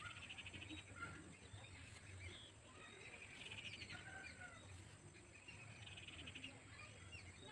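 Near silence with faint background bird chirps and short rapid trills, three of them a few seconds apart.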